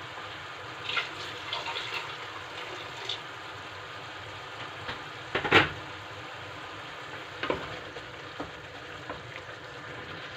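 Pot of macaroni cooking on the stove: a steady hiss, with a few light clinks of a utensil and one louder knock about five and a half seconds in.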